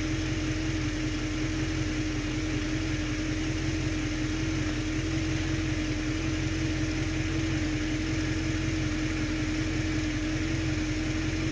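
1966 Ford Mustang engine idling roughly after start-up, a steady stream of fast low pulses with a constant steady tone over them and no change in speed.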